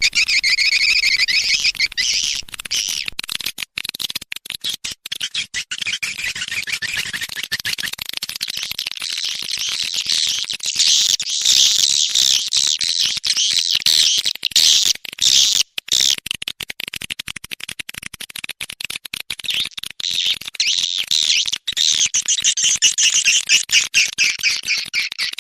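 Recorded swiftlet calls played as a lure sound for swiftlet farming: a dense, continuous chatter of rapid high twittering chirps, with a few brief gaps.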